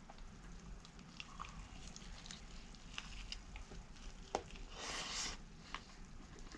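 Faint sounds of biting into and chewing a fried chicken sandwich: scattered soft clicks, and a short louder crunching noise about five seconds in.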